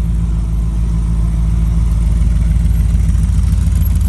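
A car engine idling close by, a steady low pulsing rumble that grows a little louder about two seconds in.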